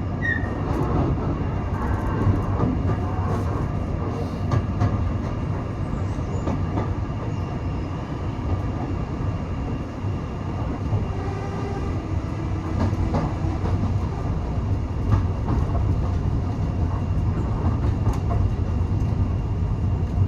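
Passenger train running along the line, heard from on board: a steady low rumble of wheels on rails with occasional short knocks.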